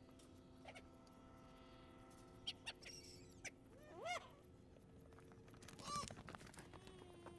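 Faint bird calls: two short calls, each rising then falling in pitch, about four and six seconds in, with a few faint clicks and a steady faint hum underneath.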